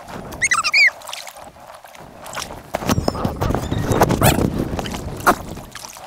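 Kayak paddling heard sped up in time-lapse: water splashing and sloshing around the paddles and hull, with a few knocks, one sharp one near the end. Brief high chirping sounds come about half a second in.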